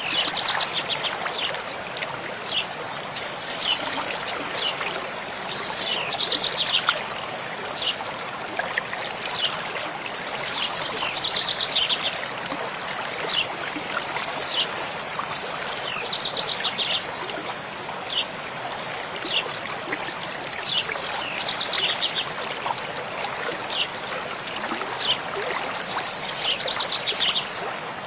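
Mountain stream flowing steadily, with a songbird singing short phrases of rapid repeated high notes every five seconds or so, and scattered single chirps between them.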